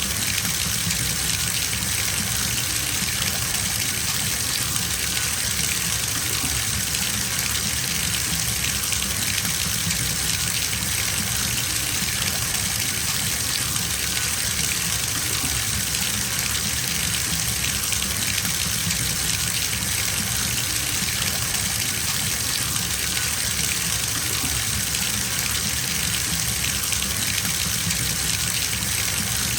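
Bathtub filling from the tap: a steady, unbroken rush of water pouring into the tub.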